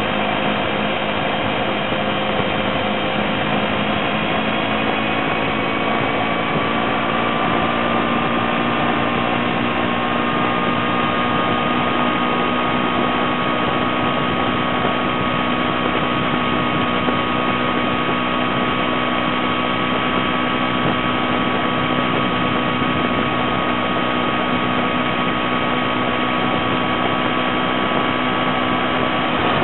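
2008 Kawasaki Ninja 250R's parallel-twin engine running steadily while riding at speed, its pitch climbing slightly a few seconds in and then holding, with wind and road noise.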